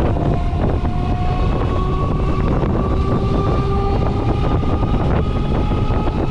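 A train passing close by: steady loud rumble with wheels clicking over rail joints and a whine that rises slowly in pitch, with wind buffeting the microphone.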